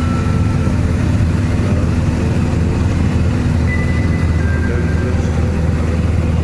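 Cessna single-engine plane's piston engine and propeller running steadily at high power, heard from inside the cabin during the takeoff.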